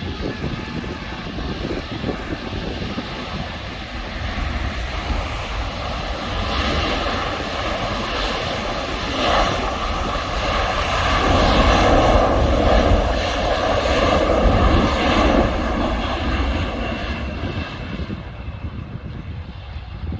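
Rolls-Royce Trent XWB-97 turbofans of an Airbus A350-1000 during a rejected take-off run: steady jet noise with a held fan whine that builds to its loudest a little past the middle, then fades as the aircraft slows.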